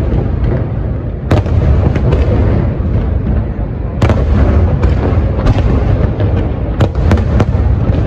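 Fireworks display, many shells going off at once: a continuous deep rumble of booms with sharp bangs every second or two.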